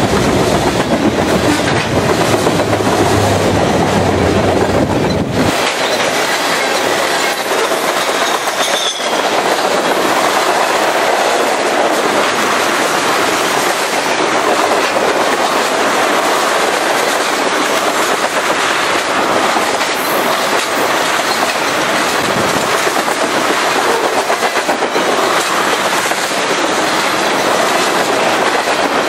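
Freight train of tank cars rolling past close by, steel wheels clattering steadily over the rail joints. A deep low rumble under it drops away about five seconds in.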